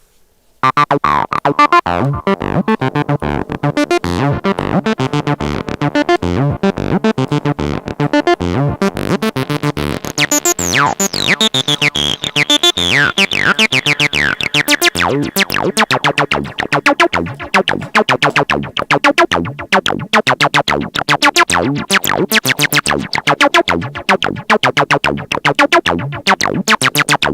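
TB-303-style acid bassline playing a fast, even run of short synth bass notes through an asymmetric tube-style distortion plugin with the mix fully wet. About ten seconds in, a bright resonant filter sweep falls in pitch over a few seconds.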